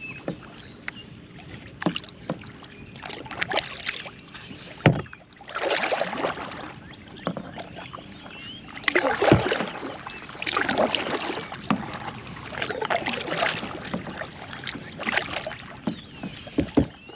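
Kayak paddle strokes splashing and dripping in the water every few seconds, with a few sharp knocks, the loudest about five and nine seconds in.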